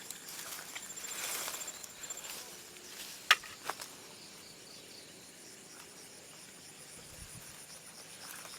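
Night insects trilling steadily in high, thin pulsed tones, with two sharp knocks a fraction of a second apart about three seconds in.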